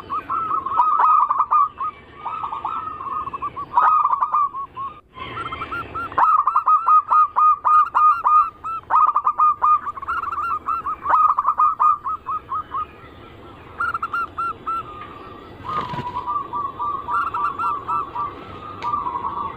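Zebra doves (perkutut) cooing: phrases of quick repeated notes, one phrase after another, with a brief break about five seconds in.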